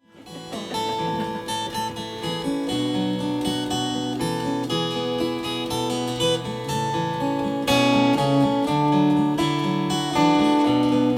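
Acoustic guitar strummed, playing a folk chord pattern as an introduction, fading in from silence at the start.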